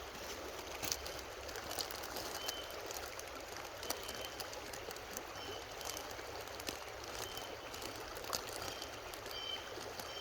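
Creek water flowing steadily, with a few faint clicks scattered through it.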